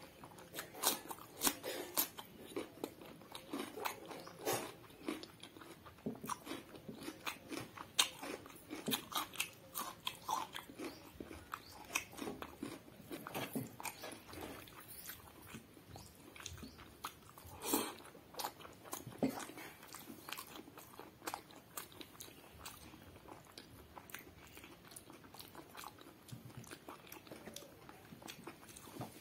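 Close-up eating sounds: crisp crunching bites and chewing of raw cucumber slices, mixed with chewing of hand-fed mouthfuls of rice pulao. The crunches come in an irregular run, a few of them louder than the rest.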